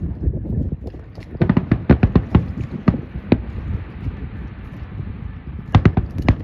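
Fireworks going off: a quick run of sharp bangs and crackles about a second and a half in, a stretch of steady hiss, then another cluster of bangs near the end.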